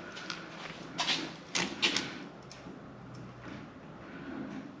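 A few short metallic clicks and knocks from handling a hydraulic A/C hose crimp tool and its dies as they are set in place, all within the first two seconds.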